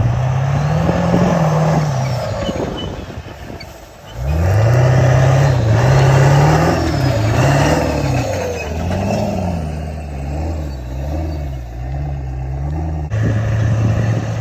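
Pickup truck engine revving up and down under load in four-wheel drive off-road. The revs fall away about two seconds in, climb back hard about four seconds in, then waver in quick rises and dips.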